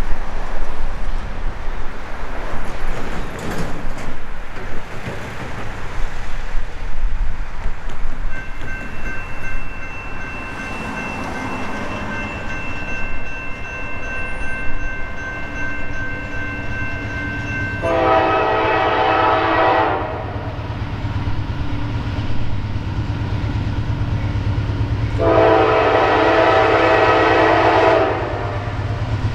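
Norfolk Southern GE AC44C6M diesel locomotive approaching with a low rumble that builds, sounding its air horn in two loud blasts: a two-second one about eighteen seconds in and a longer one about twenty-five seconds in. Before the horn, a thin steady high tone is heard for about ten seconds.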